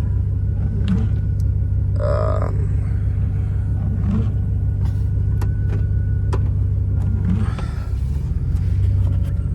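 Chevy pickup truck driving, a steady low engine and road rumble. The rumble dips briefly about eight seconds in, then comes back.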